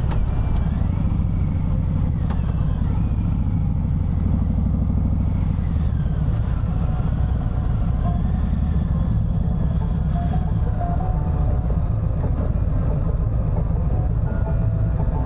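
Harley-Davidson Fat Bob 114's Milwaukee-Eight 114 V-twin running steadily with a deep, even low rumble.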